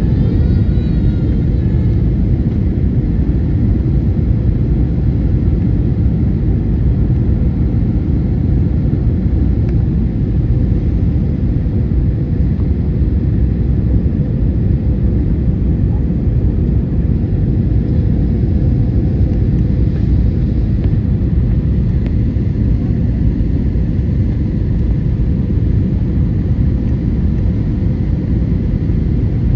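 Airbus A321 cabin noise: a steady, even rumble of engines and airflow with a faint constant hum, unchanging throughout.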